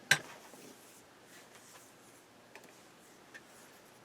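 A single sharp click, the amplifier's power switch being switched on, followed by a few faint light ticks from handling the unit and test leads.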